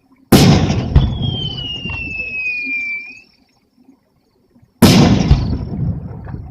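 Aerial fireworks bursting: two loud booms about four and a half seconds apart, each with a follow-up crack and a rumbling roll that dies away. A high whistle slides down in pitch for about two seconds after the first boom.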